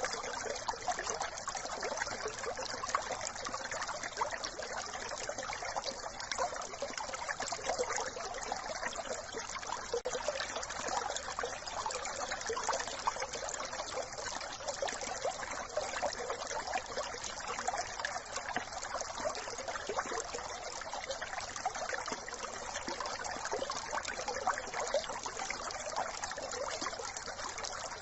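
Small brook running, a steady trickling babble of water with no pauses.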